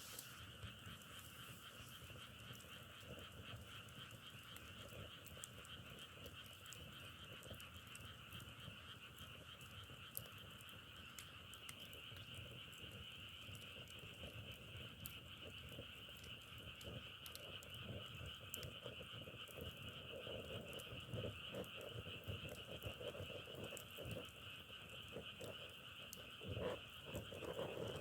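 Faint, steady chorus of frogs calling, with scattered small crackles. Lower, louder croaks join about two-thirds of the way through and again near the end.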